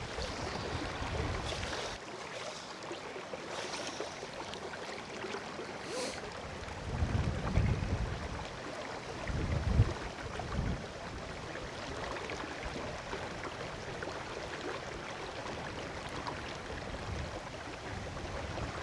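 River water rushing steadily, with wind gusting against the microphone in low rumbles about seven and ten seconds in.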